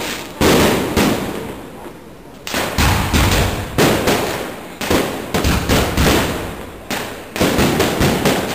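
Aerial fireworks shells bursting overhead in quick succession: a string of sharp bangs, some coming in rapid clusters, each dying away in echo.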